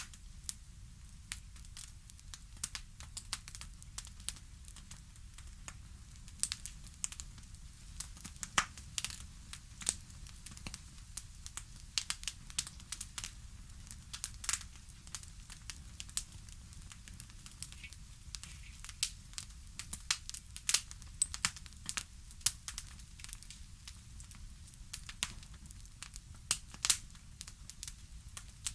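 Fireplace wood fire crackling: irregular sharp pops and snaps, some much louder than others, over a steady low rumble.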